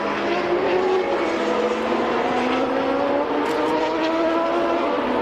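1990 Formula One car engines running at high revs, their pitch climbing slowly and steadily.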